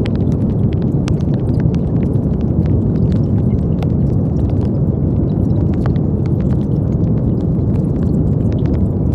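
Brown noise: a steady, deep rushing hiss heavy in the low end, unchanging in level, with faint scattered ticks above it.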